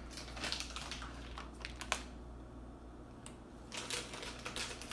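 Crinkling and crackling of a plastic snack package being handled and opened: irregular sharp crackles for about two seconds, a quieter pause, then more crackling near the end.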